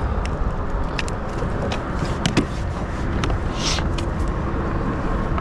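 Wind rumbling on the microphone, with scattered light clicks and knocks and a short hiss about three and a half seconds in.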